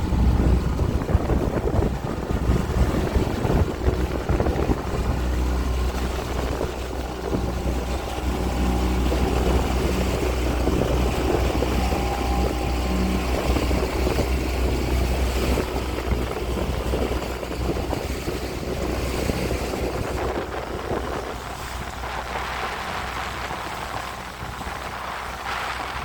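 Small motorboat under way: its engine running steadily beneath wind buffeting the microphone and water rushing past. The low rumble eases about 21 seconds in, leaving mostly a hiss of water and wind.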